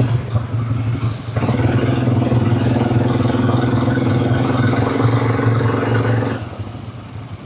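Quad bike engine running steadily; it comes up louder about a second and a half in and falls away near the end.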